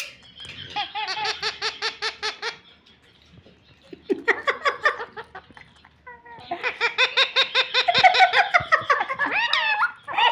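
Parrot mimicking human laughter: three bouts of quick ha-ha-ha, a short pause between each, the last and longest ending in a few squeaky, bending calls.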